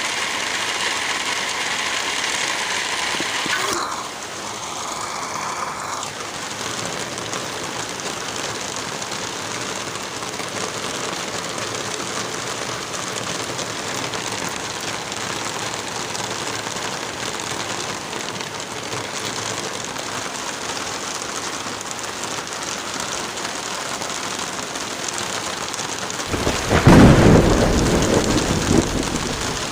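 Steady rain, its sound dropping slightly and changing texture about four seconds in, with a loud rumble of thunder near the end that swells and fades over about three seconds.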